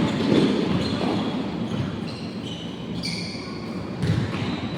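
Basketball game in an echoing gym: the ball bouncing on the court with dull thumps at the start, about half a second in and again about four seconds in, and a few short high squeaks in between.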